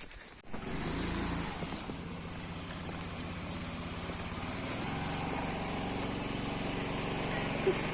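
A vehicle engine running steadily. It begins about half a second in and grows slowly louder.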